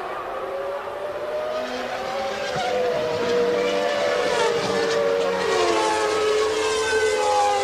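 Several 1992 Formula One car engines running at high revs together, their pitches sliding up and down as the cars accelerate, shift and brake.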